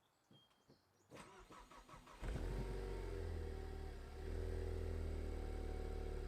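Ford Focus ST's turbocharged four-cylinder engine cold-starting on its stock exhaust: a short crank about a second in, the engine catches about two seconds in, then settles into a steady idle. The stock exhaust is quiet, likened to a vacuum cleaner.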